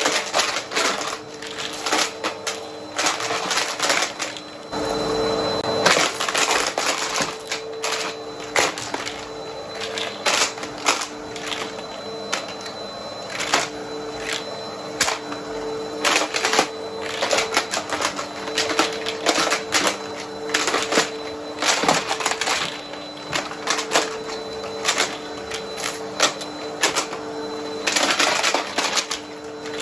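Vacuum cleaner running with a steady hum while it sucks up coins, which clatter and clink through it in dense, irregular clicks.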